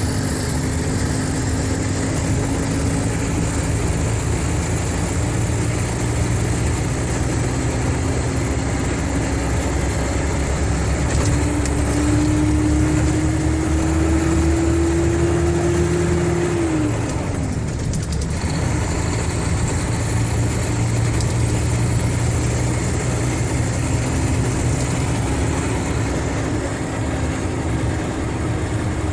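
Mercedes-Benz O500RSD coach's diesel engine running under load, its tone slowly rising in pitch. About two-thirds of the way through, the tone falls away sharply with a brief lull, as in a gear change or lift-off, then it runs on and slowly climbs again.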